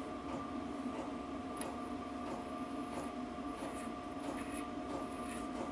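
Faint, irregular small metallic clicks of a sprocket nut and lock washer being handled and threaded onto a motorcycle gearbox shaft, over a steady background hum.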